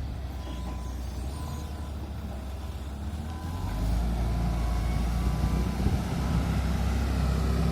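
A heavy vehicle's engine running steadily, growing louder about three and a half seconds in.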